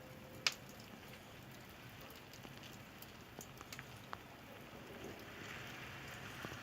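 Firewood burning in a wood-fired kiln's firebox, crackling with scattered pops and one sharp snap about half a second in. A hissing rush of fire builds near the end.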